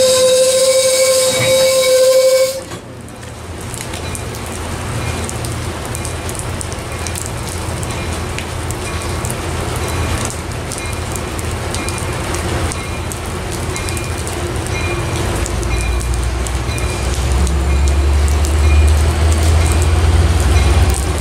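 Metrolink bilevel train cars rolling past with a steady, high-pitched wheel squeal that cuts off abruptly about two and a half seconds in. A steady low rumble follows, growing louder over the last several seconds as a train approaches.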